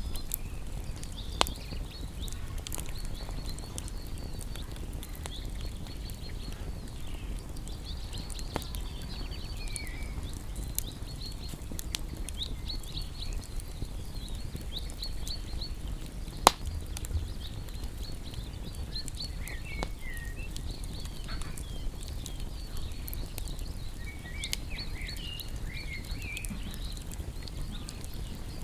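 Wood fire crackling and popping, two sharp pops louder than the rest, over a low steady rumble. Small birds chirp and trill throughout, with a few lower calls now and then.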